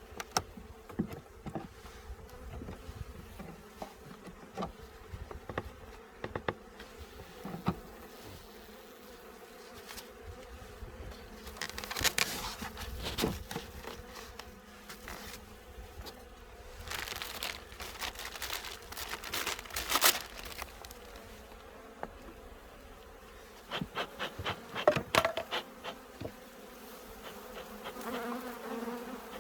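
Honeybees buzzing steadily around an opened hive, with scattered clicks, knocks and scraping clatters from frames and hive parts being handled.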